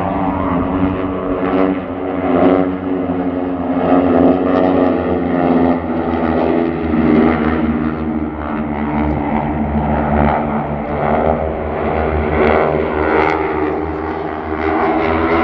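Propeller-driven airplane flying, its engines and props making a steady droning hum.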